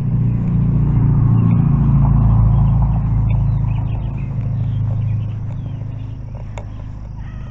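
A motor vehicle's engine running steadily with a low hum, growing louder over the first couple of seconds and then fading off.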